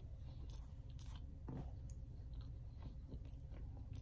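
Faint chewing of a bite of Drake's Devil Dog, a chocolate-dipped snack cake, with scattered soft mouth clicks.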